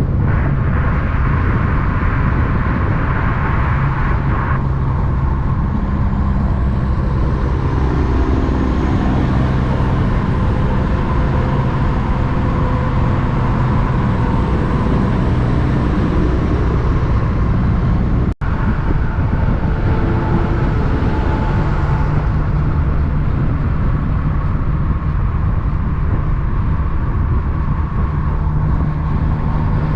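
Big-rig diesel truck engine running steadily, its pitch drifting slowly up and down. The sound cuts out for an instant about eighteen seconds in.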